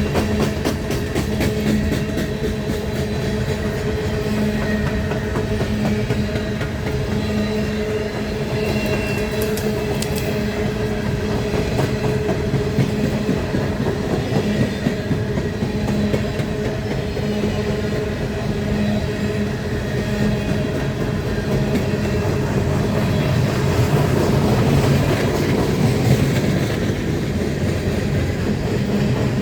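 Coal train rolling steadily past, its wagons' wheels clattering on the rails under a continuous rumble with a steady hum.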